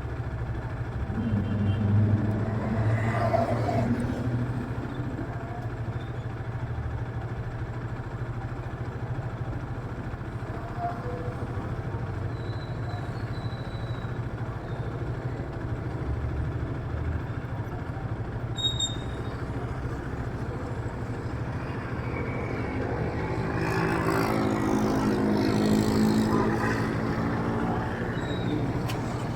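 Steady city street traffic of cars and motorcycles. Near the end, one engine grows louder and rises in pitch as it speeds up and passes.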